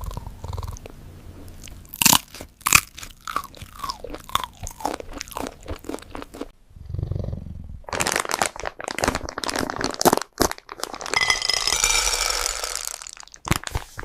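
A cat crunching and chewing food close to the microphone: rapid sharp crunches in the first half, then after a brief pause a longer, denser stretch of chewing.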